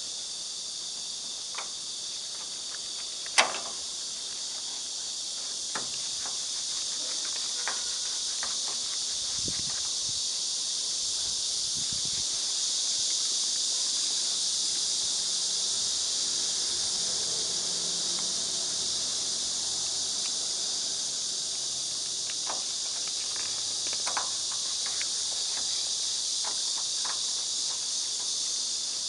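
Steady high-pitched hiss, like a chorus of insects, with a few scattered clicks and knocks, the sharpest about three seconds in.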